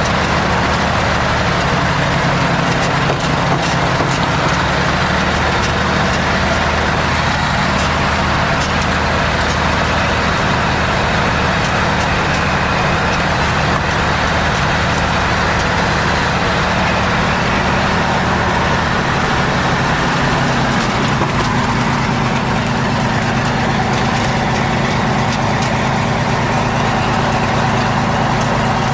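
Light piston aircraft engine running steadily. About twenty seconds in, its pitch steps up slightly with a change in power.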